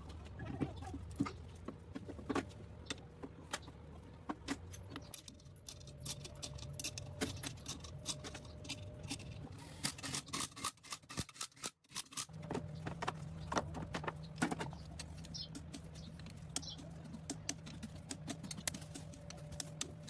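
Small metal parts clinking and rattling as they are handled, many sharp clicks over a steady low hum. The sound drops out briefly a little past halfway, then the clinking resumes.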